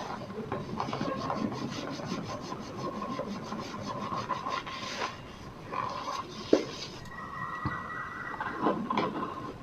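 Cornstarch powder being squeezed and rubbed, giving a run of fine squeaky crunches, with one sharper snap about six and a half seconds in.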